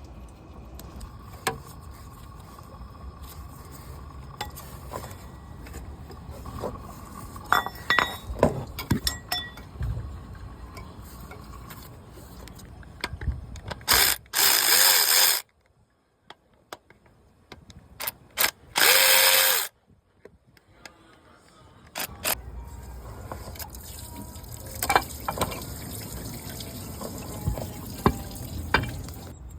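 Mechanic's hand-tool work: scattered clicks and clanks of metal tools. Two loud hissing bursts, each a second or so long, come in the middle with a near-silent gap between them.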